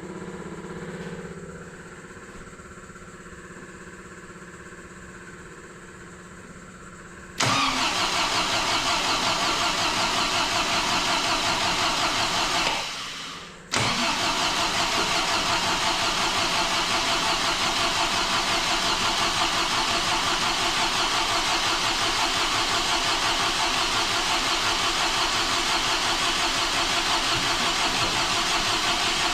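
Supercharged MGB 1.8-litre four-cylinder engine on its first start after an overhaul: a faint hum, then about seven seconds in the engine is cranked and fires. It dies away about five seconds later, starts again a second after that, and runs steadily with an even pulse.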